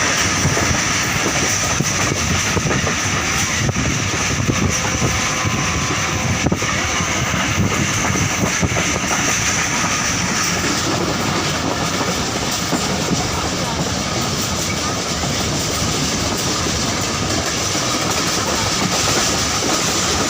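Passenger train running along the track, heard from aboard: a steady rumble with the wheels clattering on the rails.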